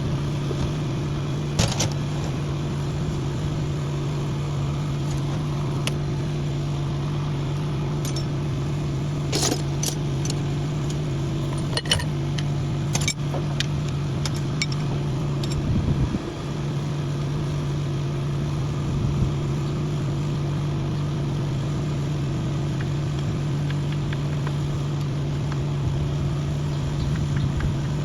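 An engine idling steadily, with a few sharp metallic clinks and knocks over it, mostly in the middle stretch.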